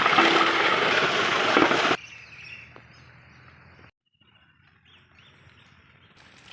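A loud, steady hiss that cuts off abruptly after about two seconds. It gives way to faint outdoor ambience with small birds chirping now and then, broken by a moment of dead silence near the middle.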